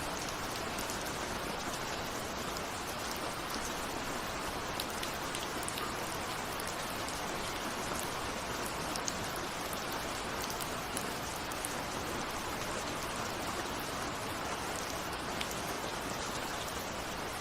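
Steady rain falling, a continuous even hiss with scattered sharp ticks of individual drops striking a window.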